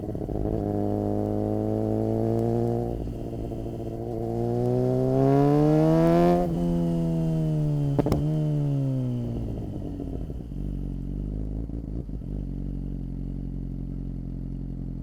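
Suzuki GSX-R600 inline-four motorcycle engine pulling up through the revs, with a brief dip about three seconds in as it shifts up. It then revs harder to a peak about six seconds in, winds down and settles to a steady low run, with one sharp click about eight seconds in.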